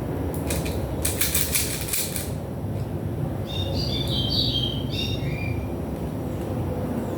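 A quick run of clicks and rattles, from small parts being handled, in the first couple of seconds. Then a bird chirps a short string of high notes, over a steady low background rumble.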